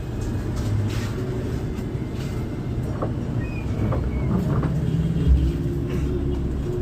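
Pelita Paradep bus running on the road, heard from on board: a steady low engine and road rumble with a few light knocks.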